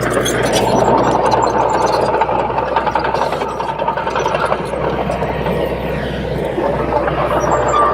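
Komatsu D21P bulldozer's diesel engine running steadily, with a low steady hum beneath.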